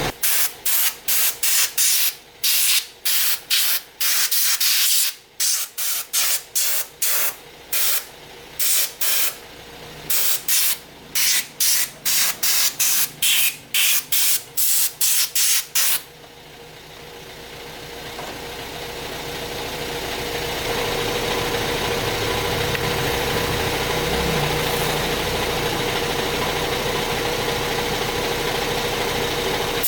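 A pressurised spray fired in quick short bursts, a little under two a second, for about half the time, then held on continuously with a steady hum underneath.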